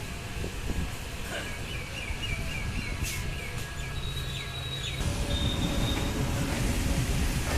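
A train pulling out of a station, with a low rumble that grows louder about five seconds in as it gets moving. A quick run of short high chirps and a few thin high squeals sound over it.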